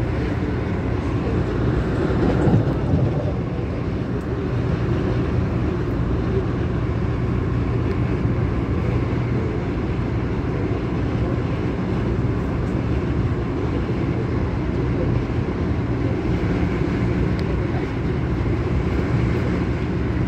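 CAF-built MTR Tung Chung Line train running between stations: a steady rumble of wheels on rail and running gear, with a brief louder surge about two to three seconds in.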